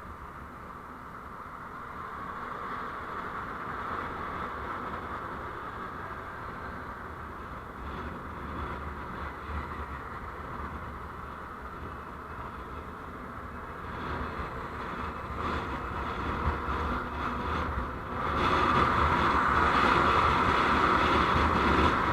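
Road noise of a moving vehicle picked up by a dashcam: a steady rushing drone that slowly grows louder, then steps up sharply about eighteen seconds in.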